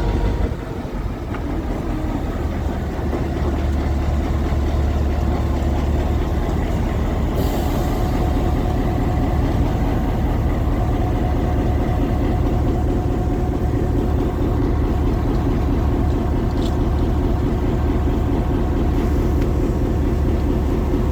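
Train running with a loud, steady low rumble, the rapid beat of the running gear and engine underneath it.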